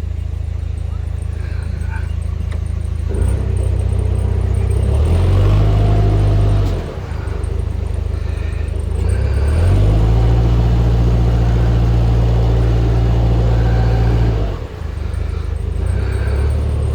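Narrowboat's diesel engine running, its revs raised twice for a few seconds each time and dropped back in between.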